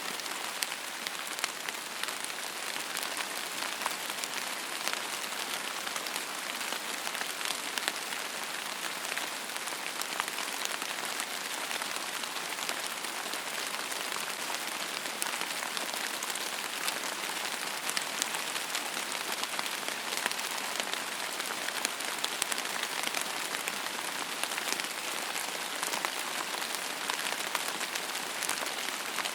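Steady rain falling on a surface: an even hiss with many fine drop taps, with little low rumble and no thunder.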